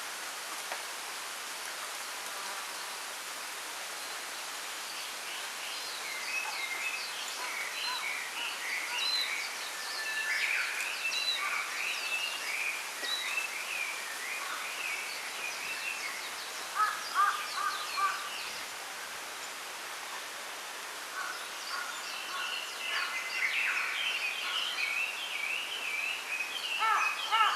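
Small birds chirping and twittering over a steady rustle of wind in a bamboo grove. The calls begin a few seconds in, with a short burst of louder repeated notes past the middle and a quick run of notes near the end.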